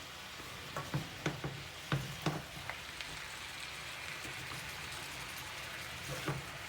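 Chicken and vegetables sizzling in a frying pan while being stir-fried, with a string of knocks from the utensil against the pan in the first three seconds, then a steady sizzle.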